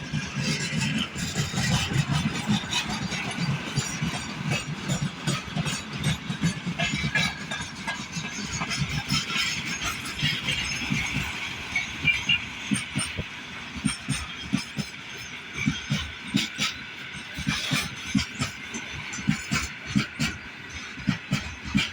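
Freight train rolling past, its wheels clacking over rail joints amid a steady rumble and hiss.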